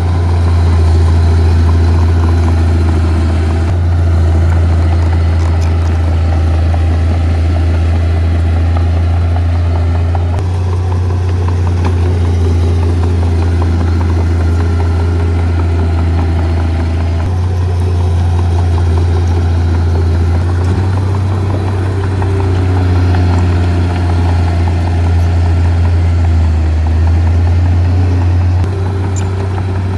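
Heavy diesel engine of earthmoving equipment running steadily with a deep, constant hum, its pitch and level shifting slightly at a few points.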